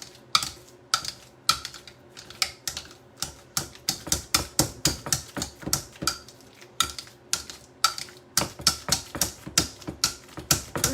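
Avocado being mashed in a bowl for guacamole, the utensil knocking against the bowl in quick, repeated strokes that speed up near the end.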